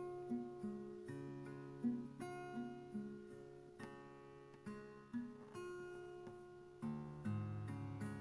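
Background music: an acoustic guitar picking a steady, gentle tune of plucked notes.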